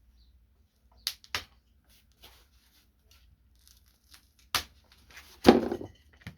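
Minibike parts and packaging being handled: a few sharp knocks and some rustling, with one loud knock about five and a half seconds in.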